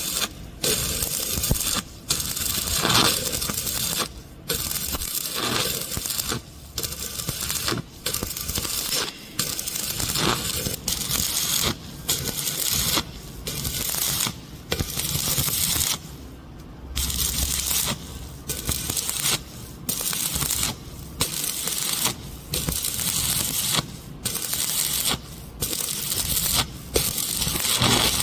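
Stick-welding (shielded metal arc) arc crackling and hissing on steel pipe, broken by short pauses every second or so and a longer pause past the middle.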